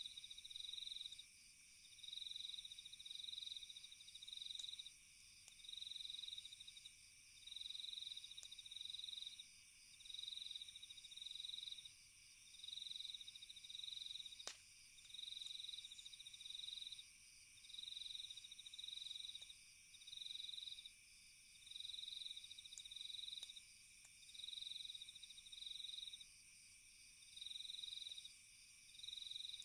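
Crickets chirping in a regular pulse, roughly one trilled chirp a second and often in pairs, over a steady high drone of other night insects. Sparse faint crackles of a campfire, with one sharper pop about halfway through.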